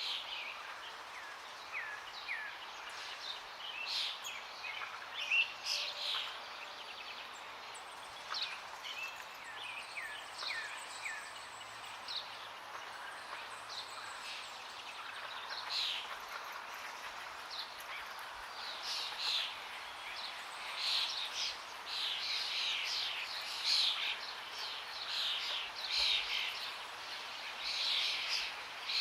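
Songbirds chirping and singing over a steady rush of flowing water, the calls growing busier in the second half.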